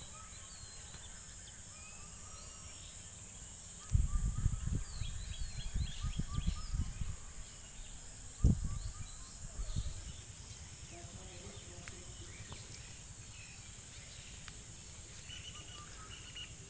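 Rural outdoor ambience: a steady high drone of insects with scattered short bird chirps. Low rumbling thumps come from about four to ten seconds in, the loudest a sharp knock at about eight and a half seconds.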